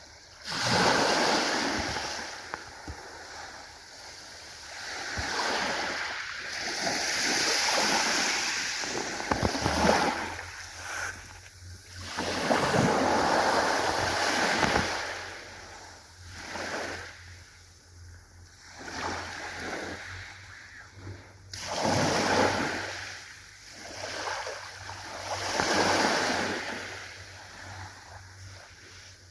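Ocean waves washing ashore, each surge of surf swelling and fading over a few seconds, about half a dozen times.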